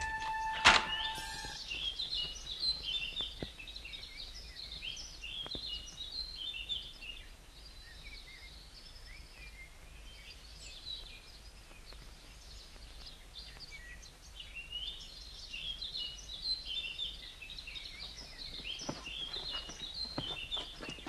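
Small birds chirping in a forest, with a single sharp knock about a second in. Near the end, the footsteps of a group of people walking start up.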